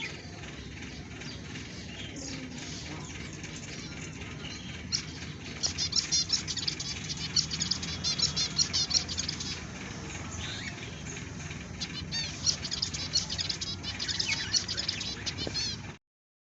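Budgerigars chattering in two long runs of rapid, high, repeated chirps over a steady low rustle.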